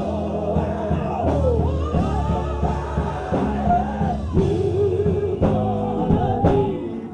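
Live gospel music: voices singing over a band with bass and drums.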